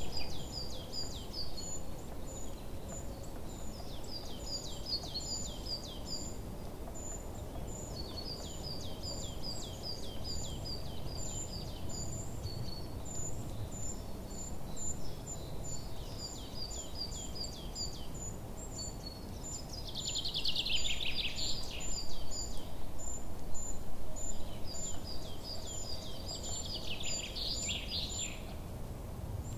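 Small birds chirping and trilling: quick, steady runs of high chirps and series of short falling notes, louder about two-thirds of the way through and again near the end, over a steady low background hiss.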